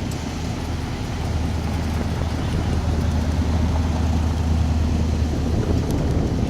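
Car engine running at a steady speed, a low even hum that fades out about five and a half seconds in.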